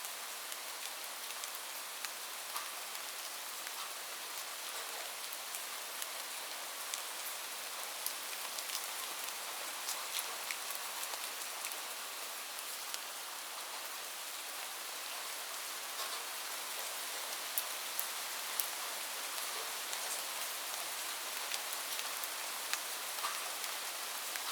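Steady rain falling on a surface: an even hiss with scattered louder drop ticks.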